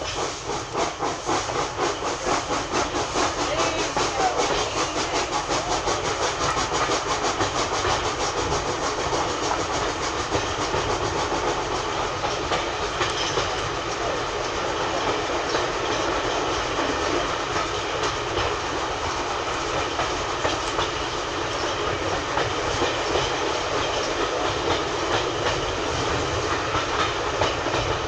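Passenger coach heard from on board as it runs behind steam locomotive No 62 'Ugly', its wheels clattering rhythmically over the rail joints. The sound builds up over the first few seconds as the train gathers speed, then settles into a steady running rattle.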